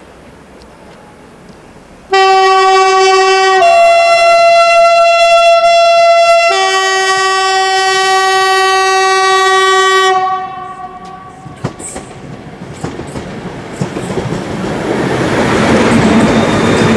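Locomotive horn sounded in a long three-part call. One note lasts about a second and a half, a different note about three seconds, then the first note again for about three and a half seconds. After the horn a train approaches, its wheel-on-rail noise growing steadily louder.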